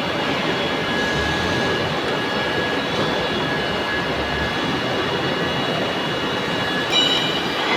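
Steady mechanical running noise with a few faint, steady high tones, swelling briefly near the end.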